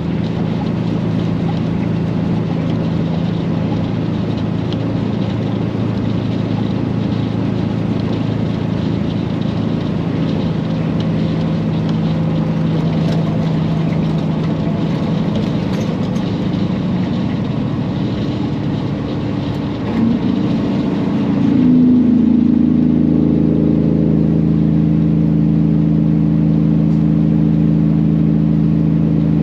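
Peterbilt semi truck's diesel engine running while driving, a steady hum. About twenty seconds in the pitch rises briefly, then the engine note settles a little louder and steadier.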